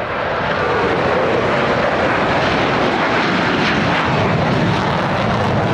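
A jet aircraft flying past: loud, steady jet engine noise that has built up just before and holds.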